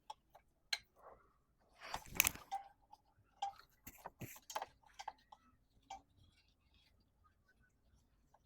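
Scattered light clicks and taps of small parts being handled, with a brief scraping rustle about two seconds in; the clicks stop after about six seconds.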